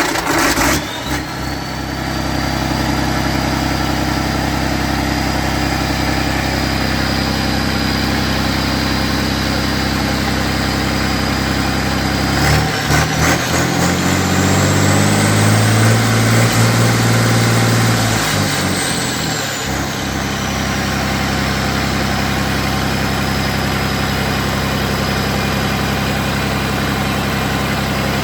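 Volvo TWD710V 6.4-litre straight-six turbo diesel on a pump set, running steadily just after starting, with a high whine over the engine note. About twelve seconds in it is revved up and held for some six seconds, the whine climbing with the revs, then it drops back to idle.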